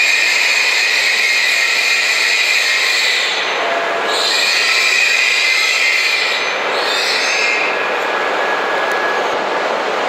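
H5 series Shinkansen train running slowly past along the platform: a steady rush of wheels and running gear with a thin high-pitched whine. The sound dips briefly twice as the cars go by.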